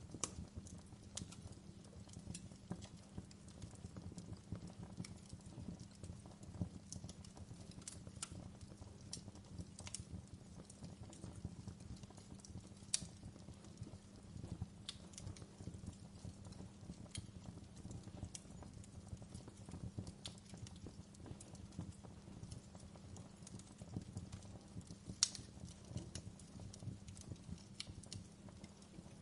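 Wood fire burning with a steady low rumble and irregular crackles and small pops, two sharper pops standing out about 13 and 25 seconds in.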